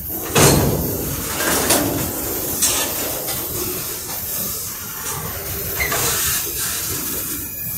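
Freight cars rolling past close by: steady noise of steel wheels on the rails, with a few sharp knocks, the loudest about half a second in.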